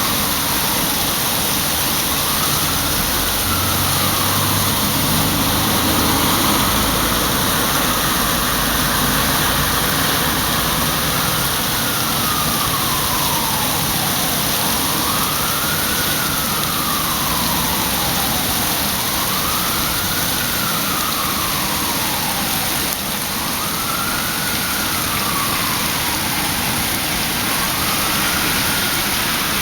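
Heavy rain pouring steadily, with an emergency-vehicle siren wailing up and down, one rise and fall about every four seconds.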